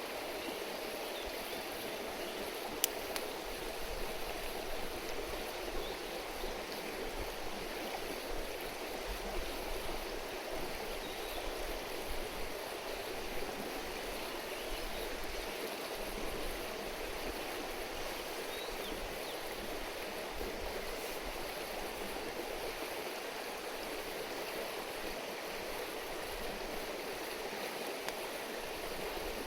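A river babbling steadily over stones, with one sharp click about three seconds in.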